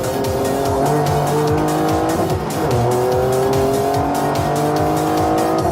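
Toyota's hydrogen-burning Corolla race car engine (a turbocharged three-cylinder running on hydrogen instead of petrol) accelerating hard: its pitch climbs, drops at an upshift a couple of seconds in, then climbs again.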